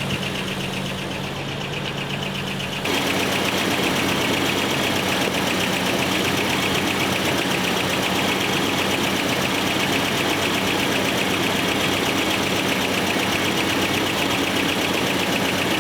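Nissan Z24 four-cylinder engine of a 1986 Nissan 720 pickup idling steadily, running for the first time after sitting over ten years, on old spark plugs and in need of a tune. The engine sound gets louder about three seconds in and then holds steady.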